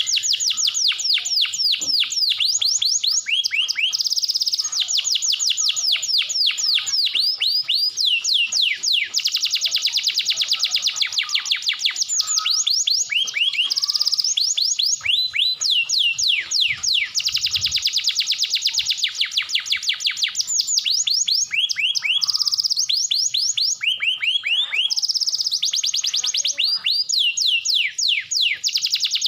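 Domestic canary singing a long, unbroken song of fast trills and rolls, with phrases of rapidly repeated falling high notes that change every few seconds.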